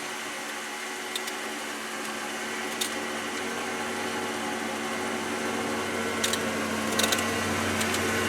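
A steady mechanical hum with a few even tones, slowly growing a little louder, with a few faint clicks and taps.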